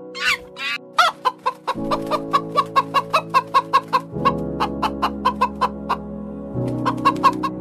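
A brown hen clucking in a rapid run of short calls, about four a second, pausing briefly near the end and then starting again. Background music plays underneath.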